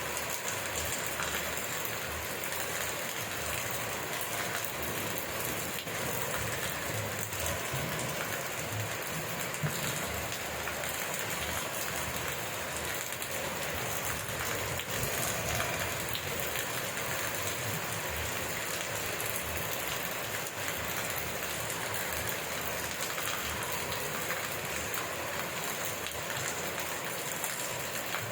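Steady heavy rain falling and pattering on surfaces, a dense even hiss with countless fine drop impacts.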